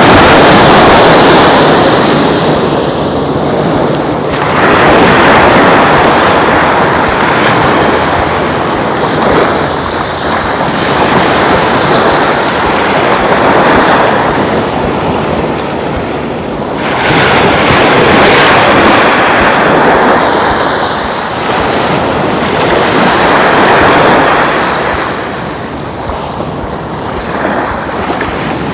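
Waves breaking and washing up on a sandy beach, the surf swelling and fading every few seconds, with some wind.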